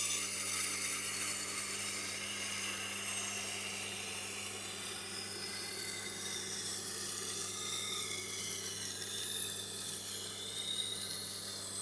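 Knife steel grinding against the turning wheel of a Tormek sharpener on the coarse 80-grit wheel, a steady scraping hiss over the machine's low motor hum, starting suddenly at the beginning; these are the passes that raise the burr on the edge.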